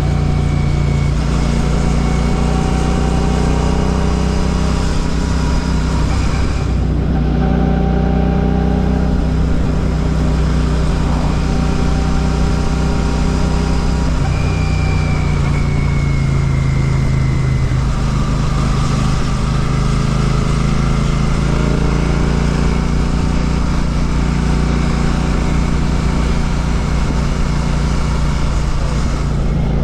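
Royal Enfield Classic 650's parallel-twin engine running under way through an Ngage aftermarket exhaust. The engine note shifts to a new pitch about a quarter of the way through and again about halfway.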